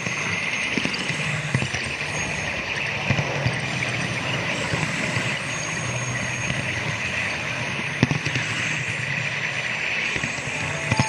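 Model train running on a home layout: a steady rolling hiss and a low hum, with scattered clicks as the wheels cross rail joints.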